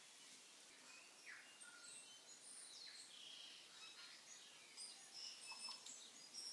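Faint bird chirps and short calls over quiet room tone, scattered through the whole stretch.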